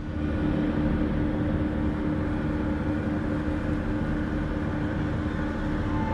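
A vehicle engine running steadily, with a constant hum and a held steady tone.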